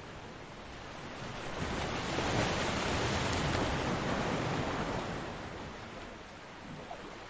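Ocean wave breaking on a beach: a steady surf hiss swells about a second in, peaks for a couple of seconds, then washes out and fades.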